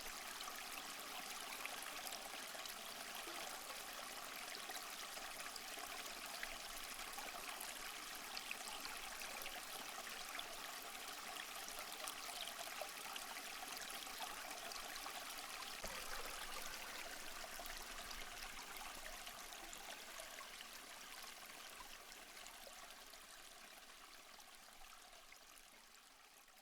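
Steady rush of running water, like a small stream or trickle, with fine splashing detail. It fades out gradually over the last several seconds.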